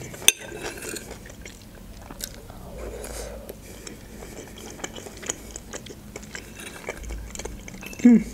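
A person chewing fried chicken hearts and potatoes, with many small wet mouth clicks. A sharp click comes just after the start, and a short voiced sound near the end is the loudest moment.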